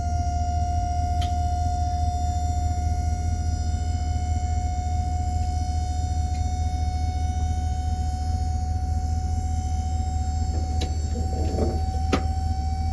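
A vehicle running steadily: a low rumble with a steady whine that creeps slightly higher in pitch, and a few sharp clicks near the end.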